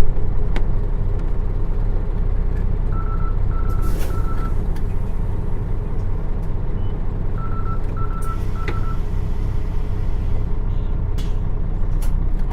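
Nissan Diesel PF6 diesel engine of a route bus running with a steady low drone, heard inside the cabin. Twice, a set of three short high beeps sounds over it, with a few sharp clicks.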